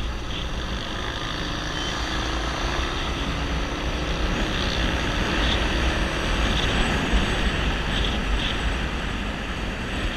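Wind buffeting the microphone with engine and road noise from a motorcycle riding at speed along a highway, a steady rushing rumble.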